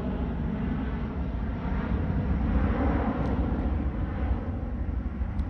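Jet airliner climbing out overhead just after take-off, its engines giving a loud steady rumble and roar that swells slightly midway.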